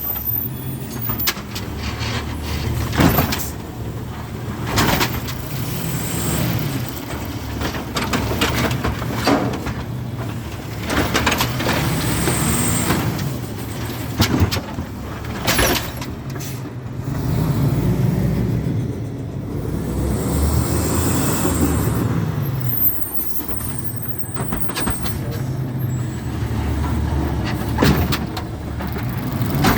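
Garbage truck with an Amrep automated arm at work: the diesel engine revs up and falls back about five times, with several sharp knocks and short high hisses of air.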